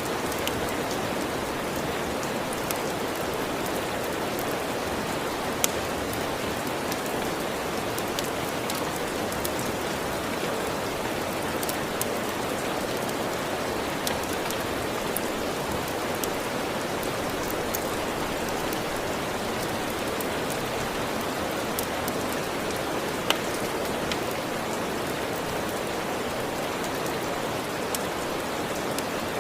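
Steady rain falling, an even hiss with scattered sharp ticks and pops, two of them louder, about six seconds in and again near the end.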